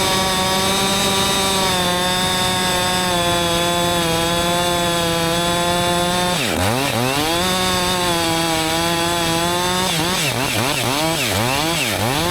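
Husqvarna 562XP two-stroke chainsaw running at full throttle, cutting through a log. About halfway through, the engine note drops sharply and climbs back to full revs. Near the end the throttle is blipped several times, the pitch falling and rising with each blip.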